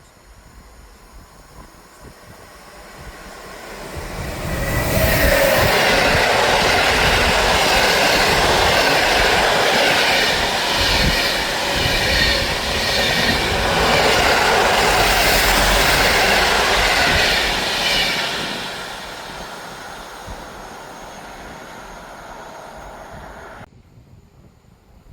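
A train passing close by at speed. Its wheels and rails grow loud about four seconds in, stay loud for some thirteen seconds, then fade away, and the sound is cut off suddenly near the end.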